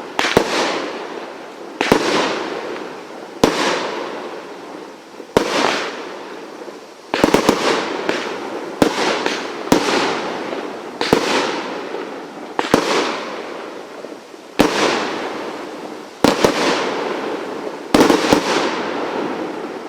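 A multi-shot firework firing shot after shot, about a dozen sharp bangs roughly every one to two seconds, with a few in quick succession about seven seconds in. Each bang is followed by a fading tail.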